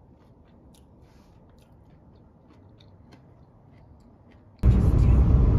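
A person biting into and chewing a donut peach, heard close up as scattered small clicks and crunches. About four and a half seconds in, a loud, steady rumble cuts in suddenly.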